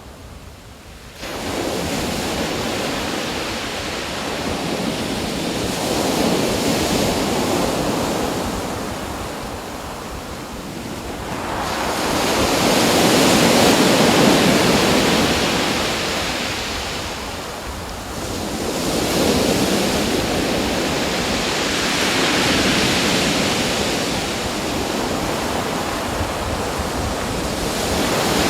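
Ocean waves breaking and washing on a shore, the surf swelling and fading in slow surges a few seconds apart. The sound jumps up sharply about a second in.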